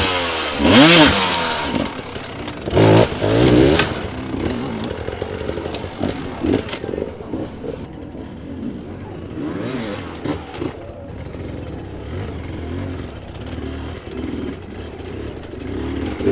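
Enduro dirt bike engines revving in repeated bursts, pitch rising and falling, loudest about a second in and again around three seconds, then quieter, uneven revving.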